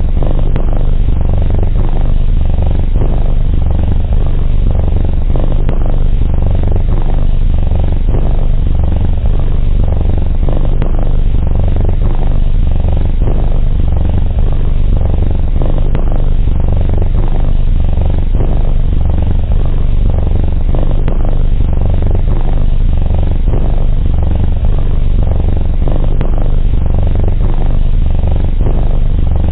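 A domestic cat purring, close and loud: a steady low rumble that swells and eases in slow alternating stretches.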